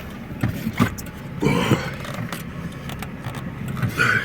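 GAZelle truck's engine running steadily, heard from inside the cab, with a few short clicks and knocks over it.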